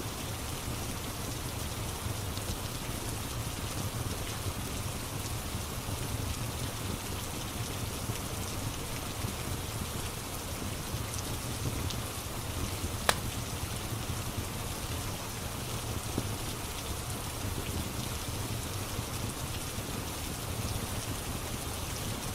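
Steady rain falling on a surface, with a low rumble under it. About 13 seconds in there is a single sharp pop, the crackle of a wood fire, and a couple of fainter ticks.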